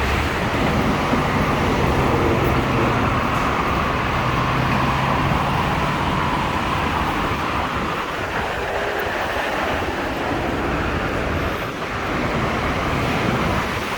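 A large vehicle passing close by: a steady low engine hum that drops away about six seconds in, over a constant rushing noise.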